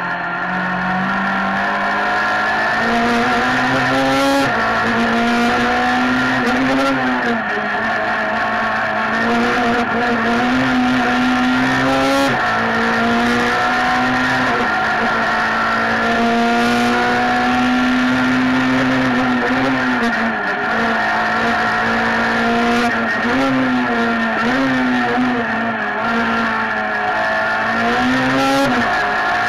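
Citroën Saxo Group A (class A6) four-cylinder engine heard from inside the cabin, run at high revs under full throttle. The pitch holds high, then drops and climbs again several times as the driver lifts, brakes and changes gear between bends.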